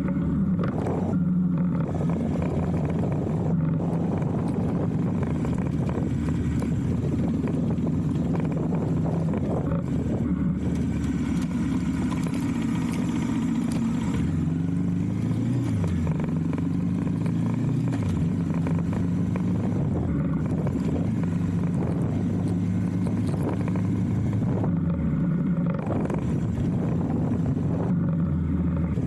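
Motorcycle engine running steadily under way. Its pitch rises and falls several times through the middle as the throttle and gears change.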